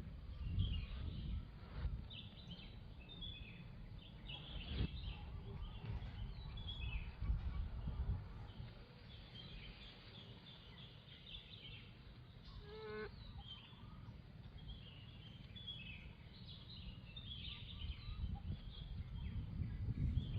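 Outdoor ambience of many birds chirping and twittering over a low rumbling noise, with one short pitched call about thirteen seconds in.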